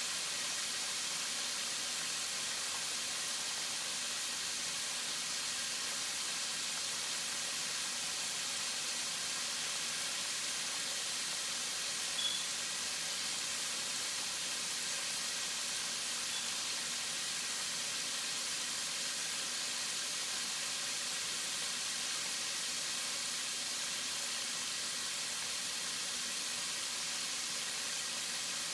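Food frying in hot fat in a skillet: a steady, even sizzle, with one brief click about twelve seconds in.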